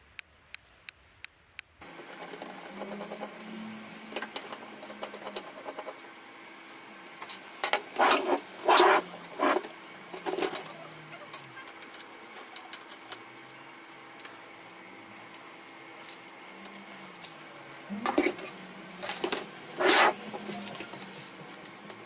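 Canon MF4018 laser printer mechanism running: a run of fast ticks at the start, then a steady whir from about two seconds in. Two louder stretches of mechanical noise come about eight and eighteen seconds in.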